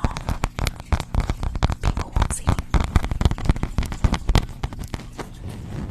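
Rapid, irregular crackling clicks, several a second, made close to the microphone as an ASMR sound.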